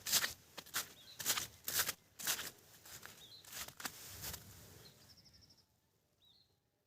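A run of irregular sharp knocks, about two a second, that thin out and stop around five seconds in, with short bird chirps about three seconds in and again near the end.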